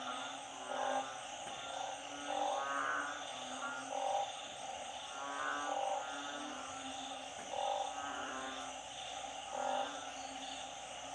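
A chorus of frogs, narrow-mouthed frogs (อึ่ง) and small frogs (เขียด), calling over flooded ground. Their calls repeat every second or two, some as quick pulsing croaks and some lower, over a steady high trill.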